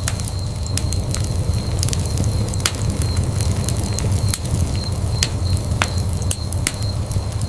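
Wood fire burning in a fireplace: irregular sharp crackles and pops of burning wood over the steady low rumble of the flames.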